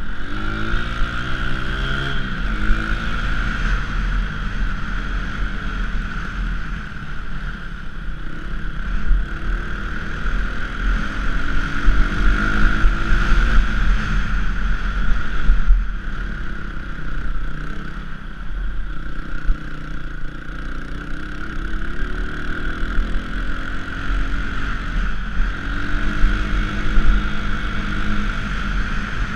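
Small 230cc single-cylinder dirt bike engine running under way, its pitch rising and falling several times as the throttle is opened and eased off, over a heavy low rumble.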